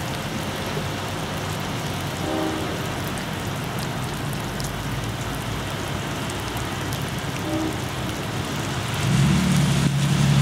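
Steady rain falling on wet pavement. Near the end a low rumble swells as the approaching EMD GP40PH-2 diesel locomotive draws near.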